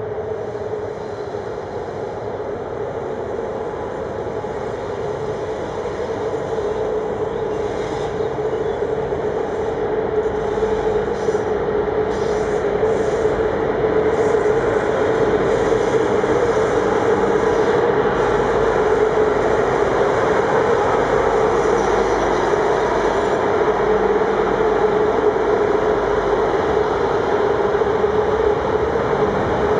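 Freight train rolling past on the rails: a steady rumble of wheels with a steady droning tone over it. It grows louder over the first half, then holds.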